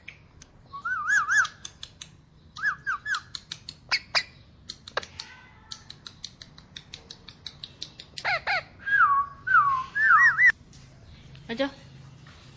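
Ringneck parrot making short warbling, wavering calls in several bouts, with many sharp clicks in between; it falls quiet near the end.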